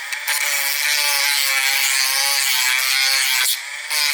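Battery-powered Dremel rotary tool with a small grinding wheel running at speed and grinding away plastic to widen a hole for an LED headlight bulb, a steady whine over a gritty hiss. It lifts off briefly right at the start and again about three and a half seconds in.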